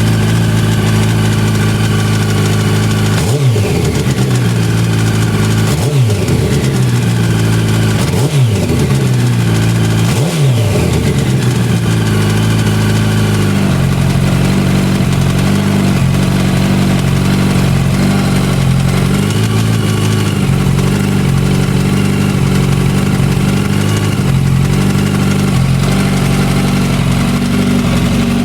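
Yamaha YZF-R1 (5VY) inline-four engine idling with a rattle, of unknown cause to its owner. The throttle is blipped four times in the first ten seconds or so, each rev rising and dropping quickly, then the engine settles to a steady idle.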